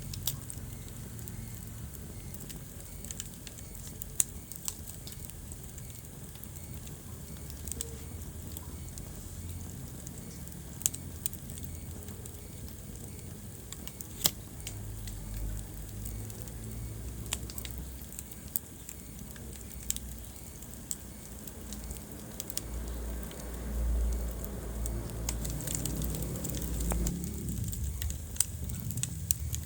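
Wood fire burning in a fireplace: a steady low rumble with scattered sharp crackles and pops, a few of them loud. The rumble swells for a few seconds near the end.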